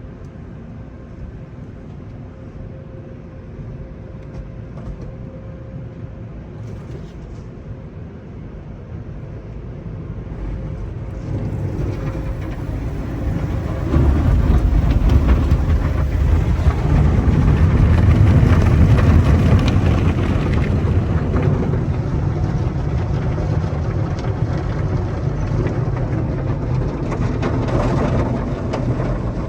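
Older Hanna mini tunnel car wash equipment running, a steady mix of spraying water and motor noise. It grows louder about ten seconds in and steps up sharply about fourteen seconds in with a heavy low rumble.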